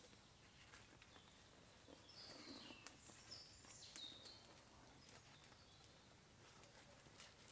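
Near silence with faint birdsong: a songbird gives a few short, high, descending whistled phrases about two seconds in.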